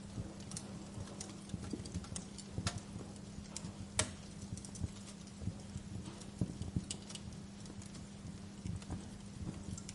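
Wood fire crackling in a fireplace: irregular sharp pops and snaps over a soft hiss, the sharpest pop about four seconds in, with a steady low hum underneath.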